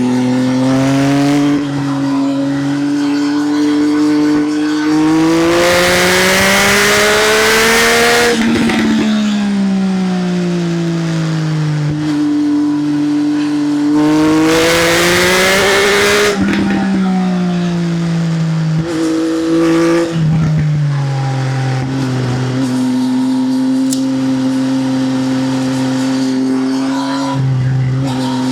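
Triumph Speed Triple's three-cylinder engine through an SC Project exhaust, pulling hard twice with its pitch climbing steadily, each time dropping off sharply as the throttle closes. After that come a couple of quick dips and a steady cruise. Wind rushes loudly over the microphone during the fastest stretches.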